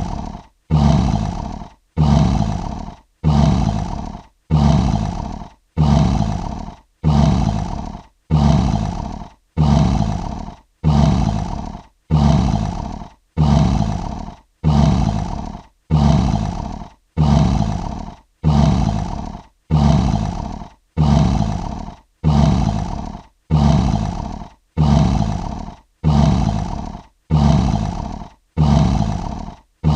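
Lion roar sound effect: the same short roar repeated evenly, a little more than once a second. Each roar starts loud and fades before the next one.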